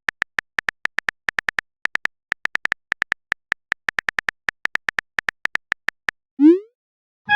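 Phone-keyboard typing sound effect: a quick, uneven run of short identical beep-clicks, several a second with brief pauses, as a chat message is typed. About six and a half seconds in, a short rising swoosh, the sound of the message being sent.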